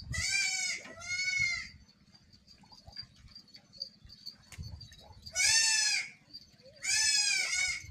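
Young goat bleating, four high-pitched calls: two in quick succession near the start and two more near the end.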